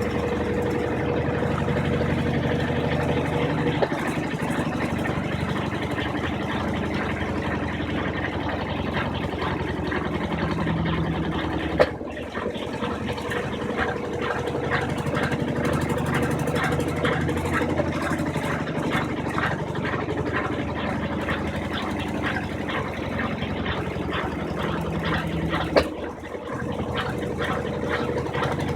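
Brastemp 15 kg washing machine in its spin cycle, its drum spinning at a steady high speed with a constant motor hum. There is a sharp click about twelve seconds in and another near the end, each followed by a brief dip in the sound.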